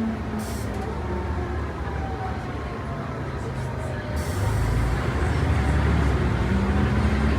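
Mercedes-Benz O405 bus's inline-six diesel engine running, heard from on board with a heavy low rumble. About four seconds in it grows louder and its note then climbs as the bus accelerates.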